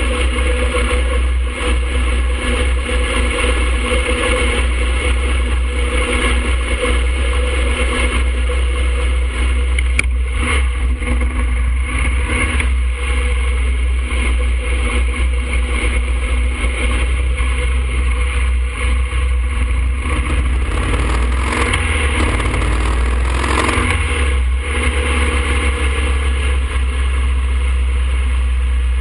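2007 Harley-Davidson Fat Boy's air-cooled Twin Cam 96 V-twin engine, heard from a camera on the bike: running at a red light, then pulling away and cruising on an open road.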